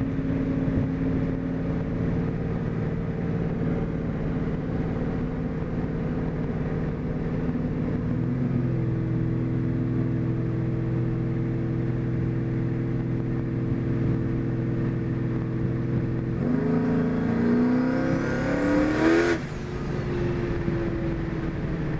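Twin-turbocharged 4.6-litre two-valve Mustang V8 running steadily, its speed stepping up slightly about a third of the way in. Near the end it revs up for a few seconds with a faint high whine rising alongside, then the revs drop suddenly as the throttle closes, and it settles back to steady running.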